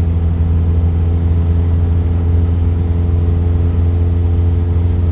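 Car engine running at a steady cruising speed, heard from inside the cabin as a loud, even low drone with road noise.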